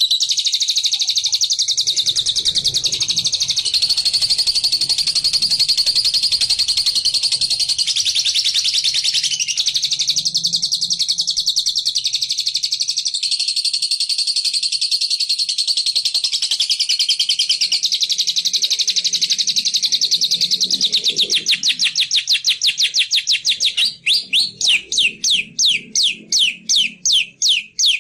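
A bilabu songbird's rapid chattering trill, the continuous 'ngekek' call used as a lure to draw wild birds. Near the end the trill slows into separate, sharp downward-sweeping notes, about three or four a second.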